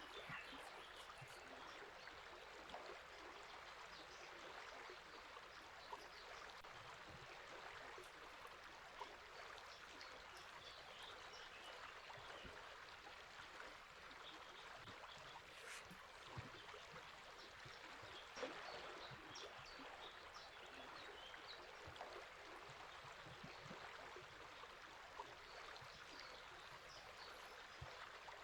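Faint, steady rush of flowing river water, with small birds chirping briefly and softly over it now and then.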